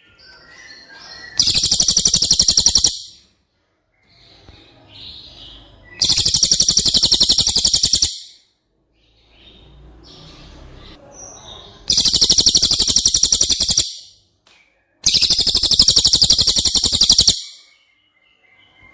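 Cililin bird singing: four loud bouts of a very rapid, high chattering trill, each about two seconds long, with soft, scattered chirps in the pauses between them.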